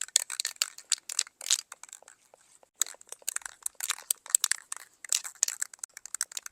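Dense, irregular crackling and crinkling, a close handling noise, with a short pause about two and a half seconds in.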